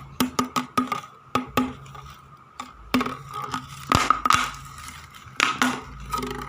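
Battery-powered walking toy robot cat running: a steady whir from its small motor under rapid clicking from its gears and feet, about four to five clicks a second at first, then a few louder scattered clicks.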